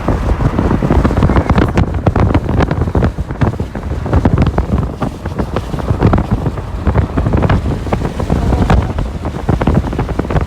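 Wind buffeting the microphone of a moving vehicle, probably through an open window, over a heavy low rumble, with many sharp crackles throughout.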